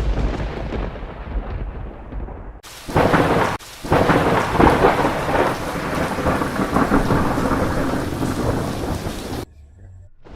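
Thunder: a rumble fading away, then a sudden loud thunderclap about two and a half seconds in that crackles and rumbles on for several seconds before cutting off suddenly near the end.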